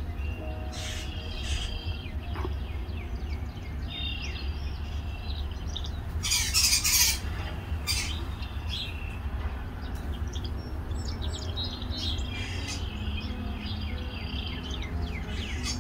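Small birds chirping and twittering in short, quick calls, with a loud hissing burst lasting about a second near the middle. A steady low rumble runs underneath.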